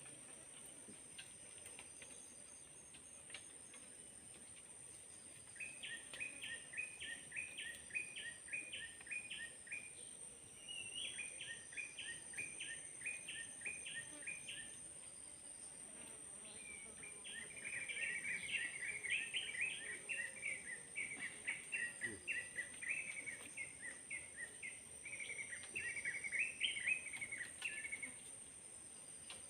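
Forest insects: a steady, high-pitched insect drone throughout, with three bouts of rapid repeated chirping calls. The longest bout runs for about ten seconds in the second half.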